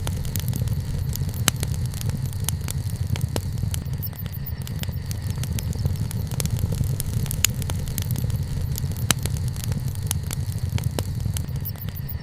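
Wood campfire burning: irregular sharp crackles and pops from the burning wood over a steady low rumble.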